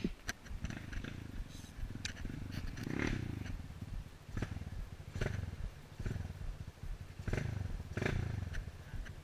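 Off-road motorcycle engine running at low revs with a low, pulsing putter, swelling briefly louder four or five times.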